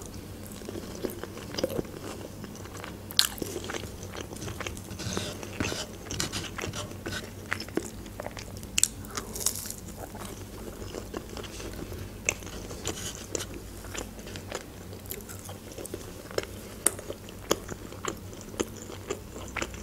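A person chewing and biting crisp breaded chicken nuggets close to the microphone: irregular short crunches and mouth clicks throughout.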